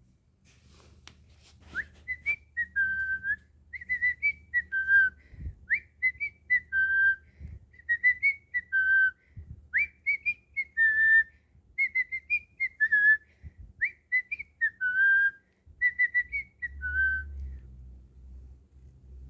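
Pet cockatiel whistling a tune: short clear notes that swoop up and then settle, the same few-note phrase repeated over and over. A few sharp clicks come just before the whistling starts.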